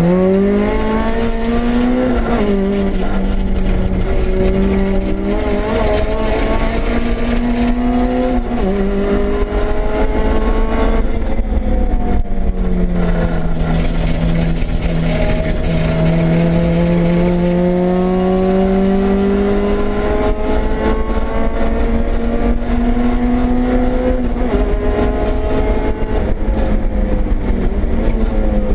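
Honda Civic EG's swapped K24/K20 four-cylinder engine running hard on track, heard from inside the cabin. Its pitch climbs under acceleration and drops several times as it shifts or lifts for corners.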